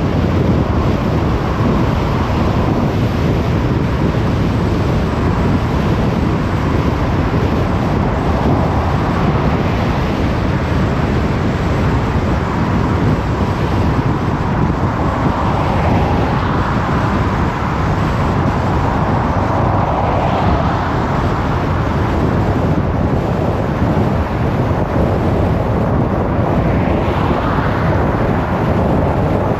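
Steady road noise of a car driving: tyres and wind, with a few brief swells of hiss around the middle and near the end.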